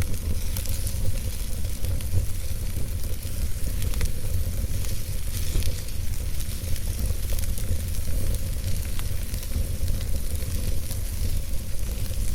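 Logs burning in a fireplace: a steady low rumble and hiss of the fire, with scattered small crackles and pops of the burning wood.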